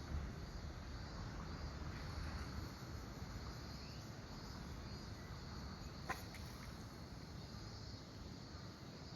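Insects chirring steadily at a high pitch over a low background rumble, with a single short click about six seconds in.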